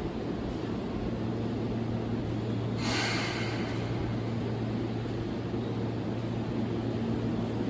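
Seibu New 2000 series electric train standing at the platform with a steady low hum, and a short burst of hiss about three seconds in.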